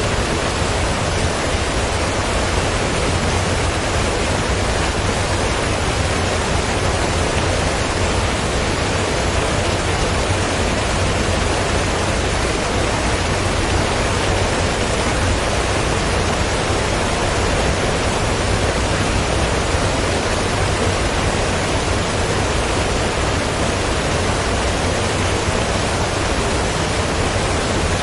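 Water rushing through a canal lock sluice, a steady, unbroken torrent with a deep low rumble beneath it.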